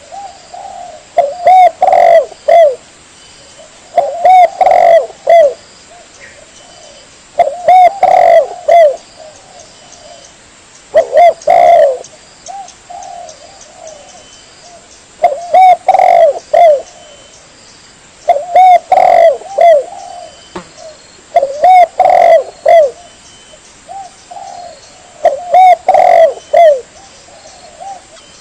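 Spotted dove (tekukur) cooing: short phrases of a few arching coos, repeated every three to four seconds, as used for luring doves.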